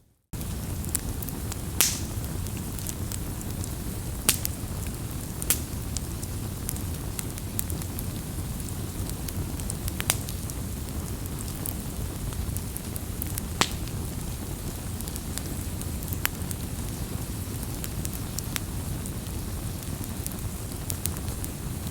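Campfire burning with a steady low rumble and hiss, broken every few seconds by sharp crackles and pops. The sound starts suddenly after a moment of silence at the very beginning.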